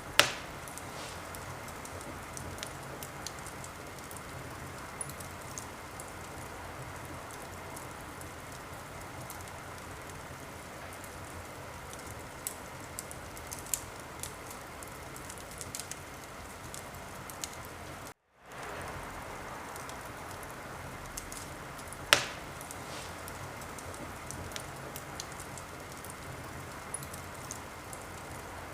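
Wood fire crackling over a steady hiss, with scattered small crackles and two loud sharp pops, one right at the start and one about 22 seconds in. The sound cuts out completely for a moment about two-thirds of the way through.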